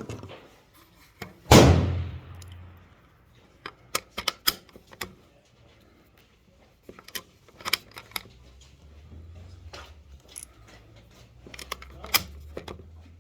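A single loud gunshot about a second and a half in, then scattered metallic clicks in small groups as steel-case .223 cartridges are pressed one by one into a rifle magazine.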